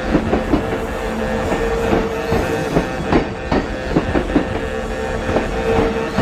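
Kintetsu train passing through the station, its wheels clacking irregularly over rail joints and points, with a steady mid-pitched hum running under the clacks.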